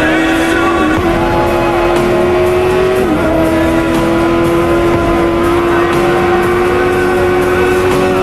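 Motorcycle engine held at high revs, a steady high-pitched drone that dips briefly twice near the start.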